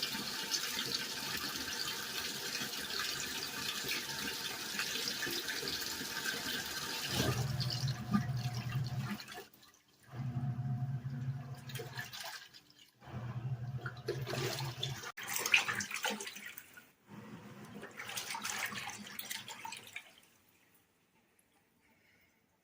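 KRIB BLING XQB201A portable washing machine filling: water runs steadily into the drum for about seven seconds. Then its wash motor starts agitating in blocks of about two seconds with short pauses between, the pulsator turning one way and then the other with water sloshing, and it stops near the end.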